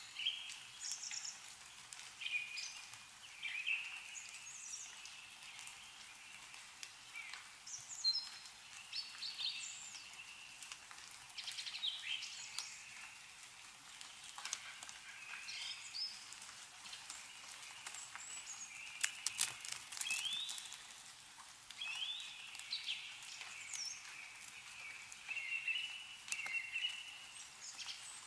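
Several songbirds chirping and calling in short, repeated phrases, over a light patter of snowmelt dripping from trees. A cluster of sharp drips comes about 19 seconds in.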